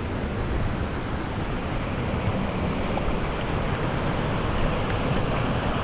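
Steady rushing of falling water from a woodland waterfall or stream, an even noise with no break or change.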